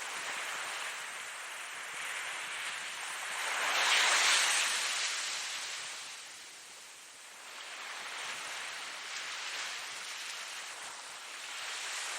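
Ocean waves breaking on a shore: a rushing wash that swells to a peak about four seconds in, ebbs away, then builds again toward the end as the next wave comes in.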